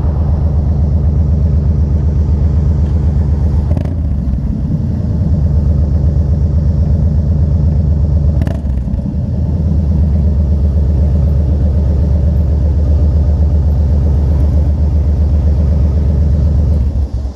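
Yamaha Road Star's V-twin engine running with a steady, lumpy beat, easing off briefly twice, then cut off near the end.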